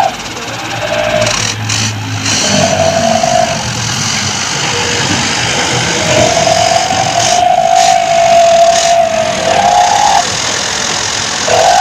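Truck engine running and revving under load while stuck in mud, with a wavering high tone that comes and goes over it.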